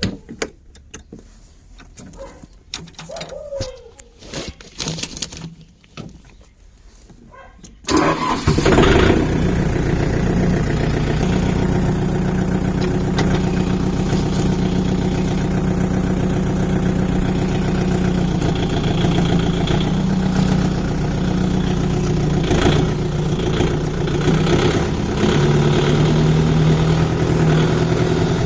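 Scattered clicks and knocks, then a tractor engine comes in suddenly about eight seconds in and runs steadily with a low hum.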